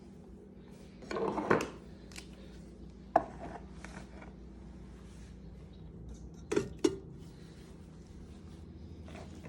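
Cookware and utensils clattering and knocking in the kitchen: a short rattle about a second in, a single sharp knock a little after three seconds, and two quick knocks near seven seconds.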